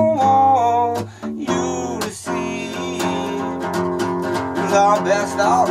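Acoustic guitar strummed steadily in a break between sung lines. A held sung note trails off at the start, and a short vocal sound rises and falls near the end.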